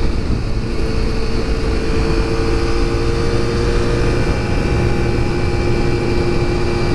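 Honda 400 road bike's engine running steadily at cruising speed, its pitch creeping up slightly in the first couple of seconds, under a constant low rumble of wind and road noise.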